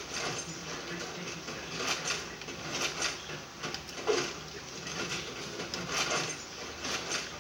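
A puppy chewing and gnawing on a bone: irregular small clicks, taps and scraping.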